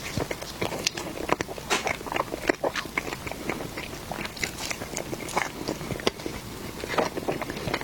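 Close-miked eating: irregular biting and chewing, with many small sharp mouth clicks and crackles.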